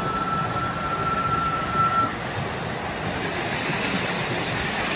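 Ride-on miniature railway train running on its track: a steady rumbling noise, with a thin, steady high-pitched tone over the first two seconds or so.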